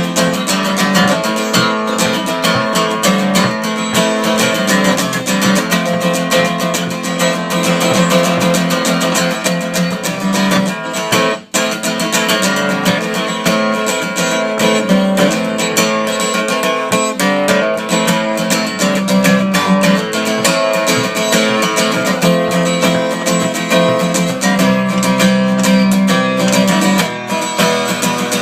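Guitar-led instrumental music with strummed acoustic guitar, with one brief break about eleven seconds in.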